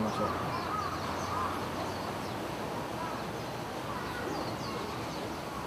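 Outdoor ambience with birds calling faintly in the background, a few short arching calls in the first second or so and faint high chirps later.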